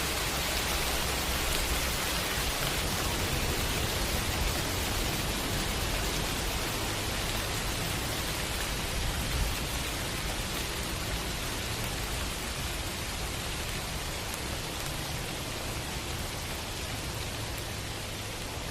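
Steady rain, a dense even hiss with no distinct drops or thunderclaps, easing slightly in level toward the end.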